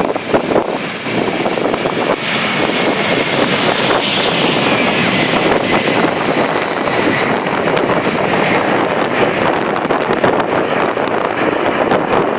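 Boeing 747's four jet engines at takeoff power: a loud, steady, rough jet noise with a faint high whine running through it.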